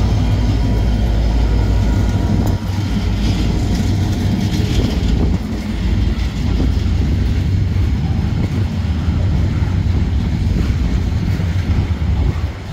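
A diesel-electric freight train passing close by: the KiwiRail DFC and DXC locomotives' engines give a deep steady hum at first, then the container wagons roll past with a continuous rumble of wheels on rail.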